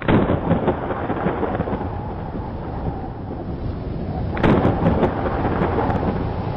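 Rain falling steadily with thunder: a loud clap at the start and another about four and a half seconds in, each rolling off into the rain.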